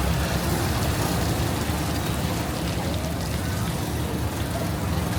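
Light rain falling steadily, with a low engine rumble of street traffic underneath.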